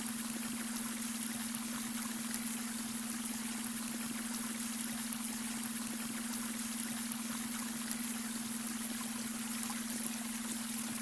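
Babbling brook, water trickling and splashing steadily over stones, with a steady low hum of an added beta-wave brainwave tone underneath.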